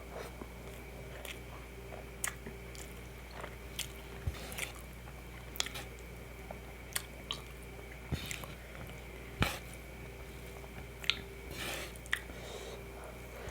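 Close-miked eating sounds: wet chewing, with irregular smacking clicks from the mouth about once or twice a second, over a faint steady hum.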